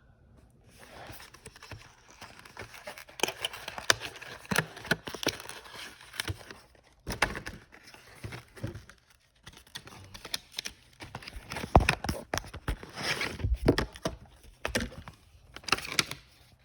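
Hands opening a small product box and handling the plastic wrapping of a wireless charger: irregular rustling and crinkling with scattered small clicks and knocks.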